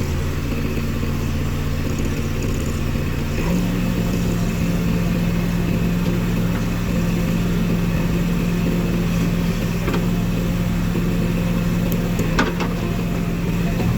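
Heavy diesel machinery engine running steadily, its note shifting to a new steady pitch about three and a half seconds in. A couple of light knocks come near the end.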